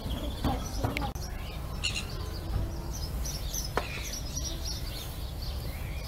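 Small birds chirping and twittering, with many short high calls over a low steady rumble.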